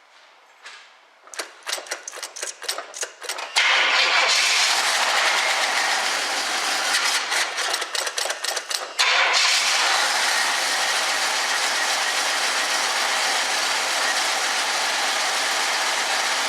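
1976 Pontiac Firebird Formula V8 being started with the choke set: the starter cranks for about two seconds, then the engine catches and runs. About halfway through it runs with a pulsing, uneven sound for a couple of seconds, then settles into a steady fast idle. The choke is working properly.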